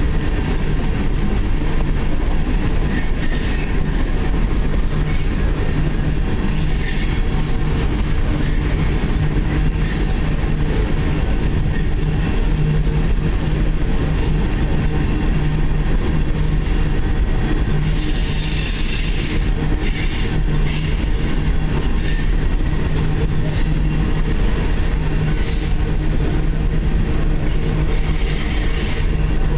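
Coal cars of a freight train rolling past on the track: a steady rumble of wheels on rail, with wheel squeal in high-pitched bursts several times, the longest about two thirds of the way through.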